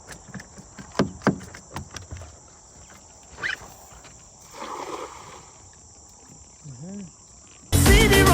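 Steady high chirping of crickets or other night insects, with a few sharp knocks about a second in. Loud music cuts in just before the end.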